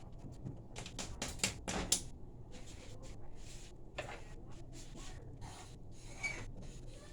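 Light kitchen clatter of a cooking pot and utensils as rice is put in: a run of sharp clicks and knocks, loudest between one and two seconds in, with another knock about four seconds in.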